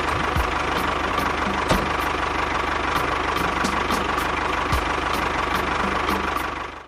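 Engine idling steadily with an even, regular beat, stopping abruptly near the end.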